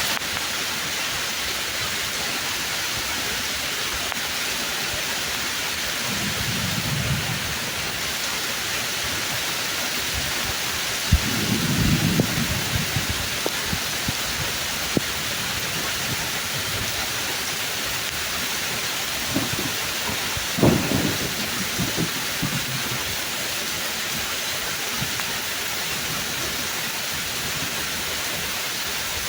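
Steady heavy rain pouring on tree leaves, with thunder rumbling three times: faintly about six seconds in, louder with a sharp crack around eleven seconds, and again around twenty seconds.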